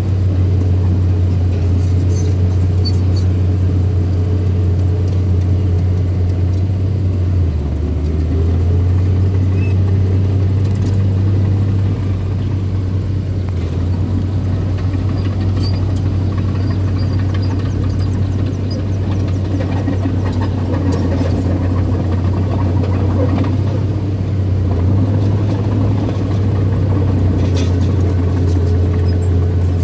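Heavy earthmoving machine's diesel engine running steadily under work, a loud low drone whose pitch shifts slightly about a quarter of the way in and again near the end.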